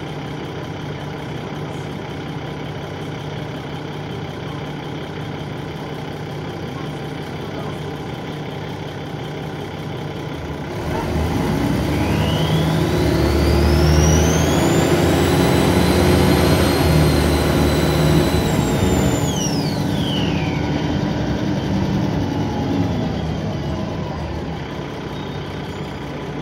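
Alexander ALX400-bodied Dennis Trident 2 double-decker bus heard from on board: the diesel engine runs steadily at idle. About eleven seconds in, it pulls away and a loud turbo whine rises steeply in pitch, holds high, then falls away quickly near twenty seconds as the bus eases off. The whine is unusually loud, a trait of this particular bus.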